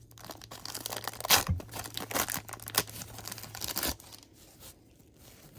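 Baseball card pack wrappers being torn open and crinkled, a quick string of crackling rips for about four seconds, then quieter rustling as the cards are handled.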